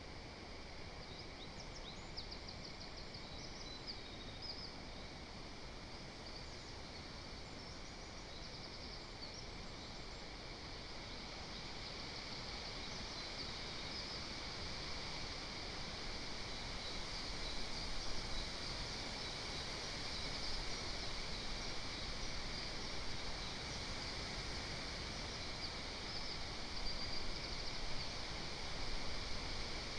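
Forest ambience: a steady background hiss with small songbirds chirping and singing faintly throughout. The hiss grows a little louder about halfway through.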